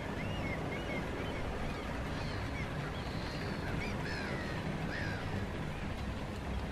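Birds calling, short rising and falling cries repeated throughout, over a steady low rumble.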